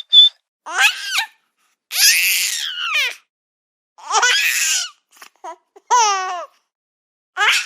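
A series of about five short, high-pitched cries with sliding, mostly falling pitch and a breathy edge, separated by pauses of about a second. A high, steady whistle-like tone ends just at the start.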